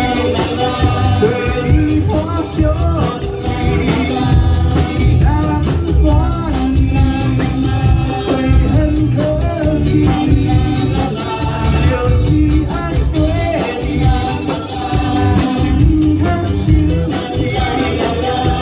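A band playing a song live, with a singer over a steady beat and heavy bass.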